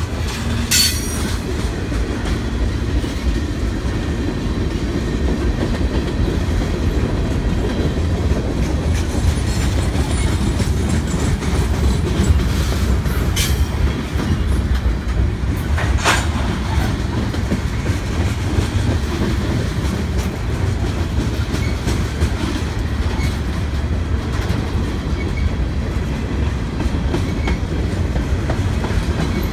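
Freight train's hopper cars rolling past: a steady rumble of steel wheels on rail with clickety-clack over the joints. A few brief sharp metallic clicks stand out, about a second in and twice around the middle.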